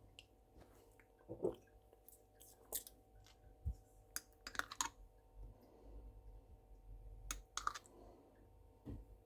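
Scattered light clicks, taps and knocks of kitchen items being handled, some in quick clusters, over a faint steady hum.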